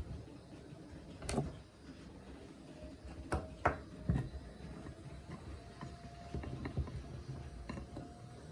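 Small clicks, knocks and scrapes of handling and unscrewing as the metal body shell is worked loose from a Märklin model locomotive, with a few sharper knocks about a second in and again around three to four seconds in.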